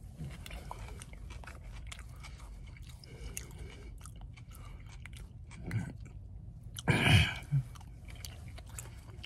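Close-up chewing of a mouthful of spicy chicken, rice and salad, with many small wet clicks and crunches. A louder burst of noise comes about seven seconds in.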